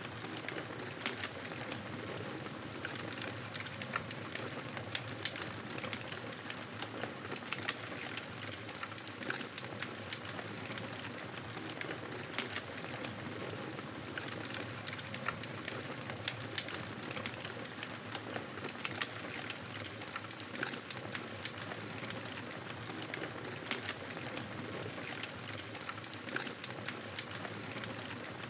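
Wood fire in a fireplace crackling: a steady hiss with many small, irregular pops and snaps.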